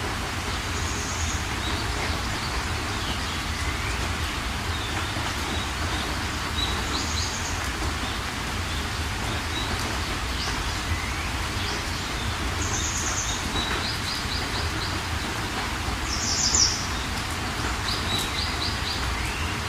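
Steady rain hiss with birds chirping over it: short, rapid high trills repeat every few seconds, and one trill about three-quarters of the way through is louder than the rest.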